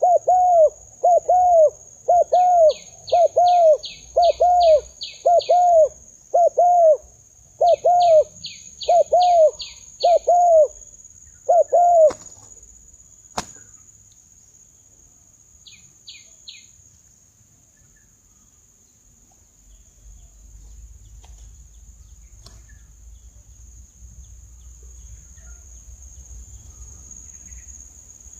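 Spotted dove (tekukur) cooing in a fast run of short, arched notes, more than one a second, which stops about twelve seconds in. Groups of higher short chirps come over some of the coos, and a steady high-pitched insect trill runs underneath.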